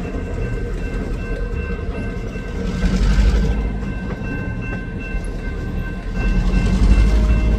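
EMD GP40 diesel-electric locomotive with its turbocharged 16-cylinder engine running as the train moves. The low rumble swells about three seconds in and again near the end.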